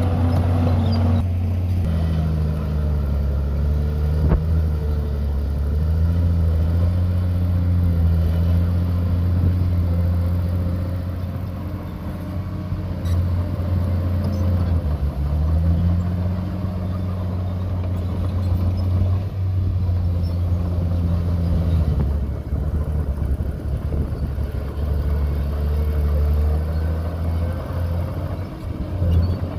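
Heavy diesel engine of earthmoving machinery running steadily, its pitch dipping and recovering a few times.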